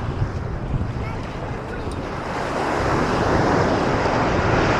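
Ocean surf breaking and washing up the beach, building to a louder surge of foam about halfway through, with wind rumbling on the microphone.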